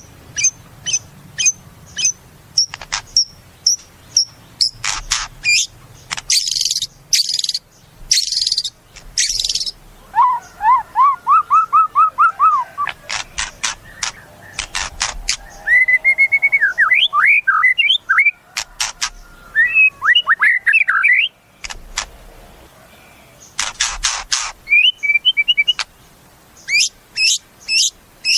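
White-rumped shama (murai batu) singing a varied song: quick runs of sharp high notes, harsh rattling bursts, and strings of short rising whistles, with brief pauses between phrases.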